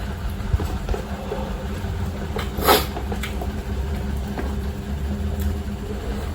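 Eating sounds from a cup of spicy instant fried noodles: small clicks and chewing over a steady low rumble, with one short, louder rush of noise a little before halfway.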